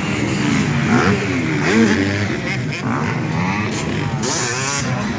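Several motocross bikes racing, their engines revving up and down repeatedly as the riders open and close the throttle.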